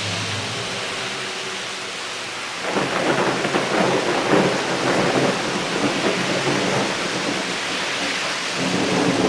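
Torrential rain hissing steadily. A rolling rumble of thunder swells about three seconds in and dies down shortly before the end.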